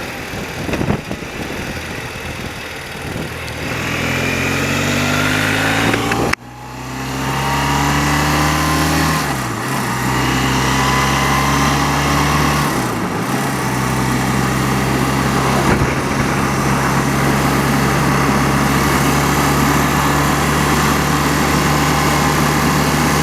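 Old BMW motorcycle engine pulling up through the gears: its note rises, drops sharply at a gear change about six seconds in, rises again, and dips briefly at two more changes. After that it runs at a steady cruising note.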